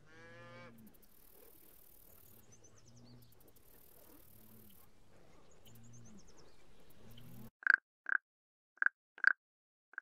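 A cow moos briefly, then faint low sounds continue over a soft outdoor hiss. About seven and a half seconds in, the sound cuts off and short, sharp frog calls begin, roughly two a second and much louder than the cow.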